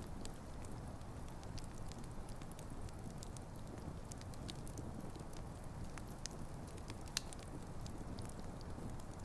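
Wood campfire burning: a steady low rush of flames with frequent small crackles and snaps of burning logs, and one sharper pop about seven seconds in.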